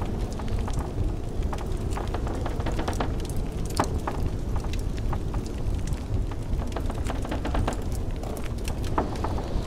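Wood fire crackling with frequent irregular sharp pops over a steady low rumble of blizzard wind.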